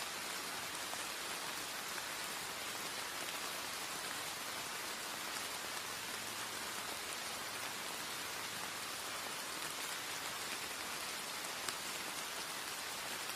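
Steady light rain, a drizzle, falling in an even hiss.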